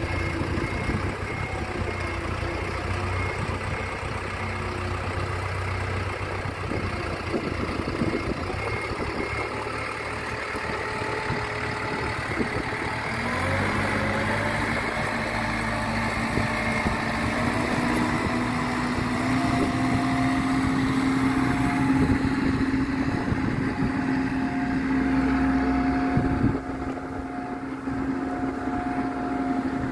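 An engine running steadily, its speed stepping up about 13 seconds in and then creeping slightly higher.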